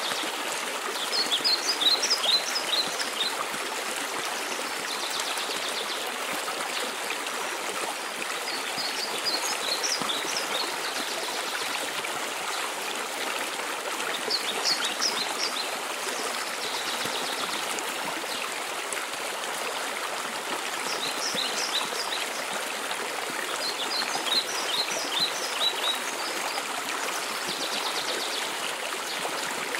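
Waterfall rushing steadily. Over it a songbird sings short phrases of quick, high notes, repeated every few seconds.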